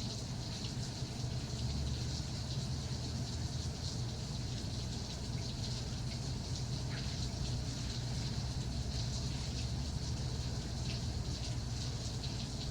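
Steady rain falling, a dense hiss of many small drop ticks, over a steady low rumble.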